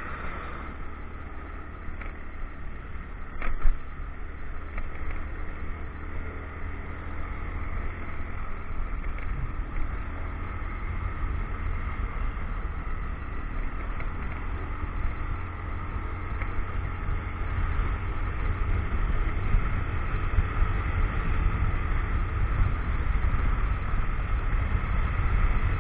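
Motorcycle on the move, heard from an action camera on the rider: a heavy low wind rumble over a steady engine drone. A sharp knock comes about three and a half seconds in, and the sound grows gradually louder toward the end.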